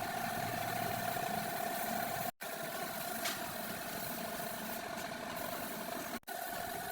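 A steady machine hum with a constant mid-pitched whine, cut off twice by brief drops to silence.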